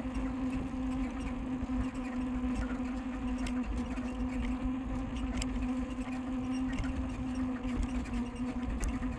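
A bicycle in motion, giving a steady droning hum with overtones, from a bike the rider calls squeaky and noisy after being left out in the rain. Wind rumbles on the microphone underneath.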